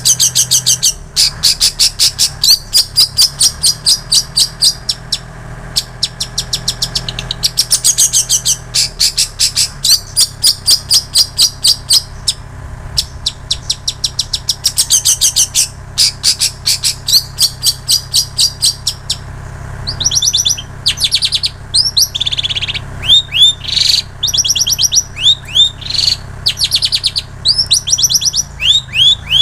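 Long-tailed shrike (cendet) singing a mimicked medley, its song filled with imitations of the ciblek sawah (a prinia) and canary. It gives fast trills of high, evenly repeated notes in runs of a few seconds with short breaks, then from about twenty seconds in, quick downward-sweeping whistles. A faint low hum lies underneath.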